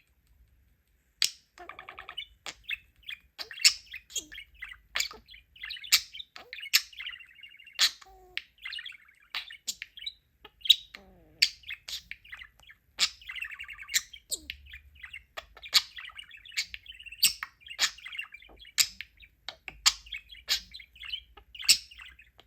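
Pet budgerigar chattering and warbling without a break, its song broken by frequent sharp clicks and short chirps.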